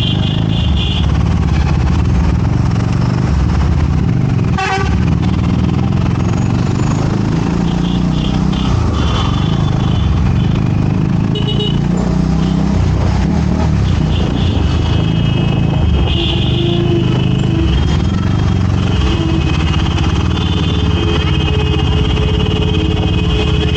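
City road traffic heard while riding: a steady engine and road rumble, with vehicle horns honking again and again. The honks come short at first and become near-continuous overlapping honking in the last few seconds. A single sharp knock sounds about five seconds in.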